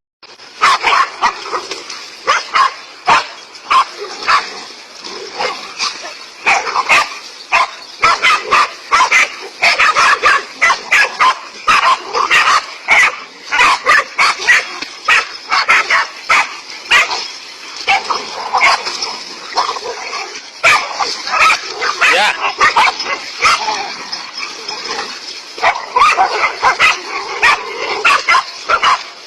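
A dog barking rapidly and without let-up, several sharp barks a second, at a snake.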